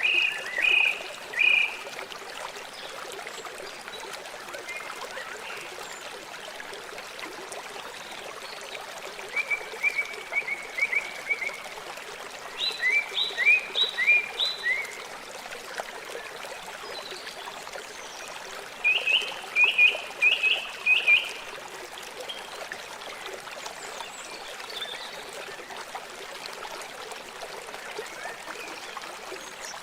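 River water flowing steadily, with a bird calling over it in four short runs of quick repeated notes, the calls louder than the water.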